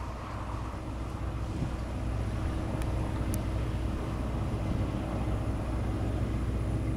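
Airbus A350-900's Rolls-Royce Trent XWB jet engines: a steady distant rumble that grows slowly louder.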